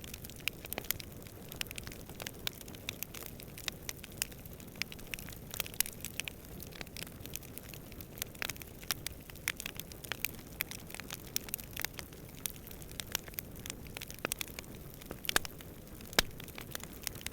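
Campfire burning, wood crackling and popping in quick irregular snaps over a steady low rush, with a few louder pops near the end.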